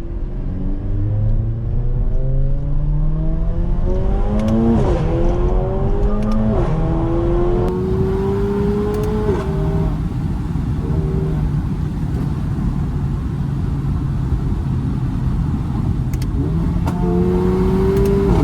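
Stage 2 tuned Mercedes-AMG GLA45's turbocharged four-cylinder pulling hard through quick upshifts: the pitch climbs and drops at each shift, about five, six and a half and nine seconds in. It then holds a steady cruise before climbing again and shifting near the end, with a few short sharp cracks along the way.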